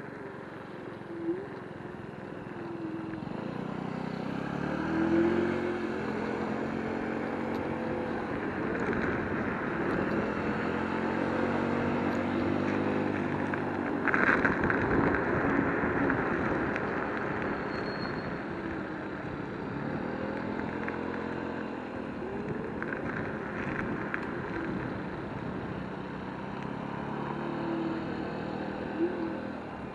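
Electric scooter riding along over pavement, its motor whining in a pitch that rises and falls with speed, under a steady wash of wind and road noise. There is a brief louder clatter about 14 seconds in.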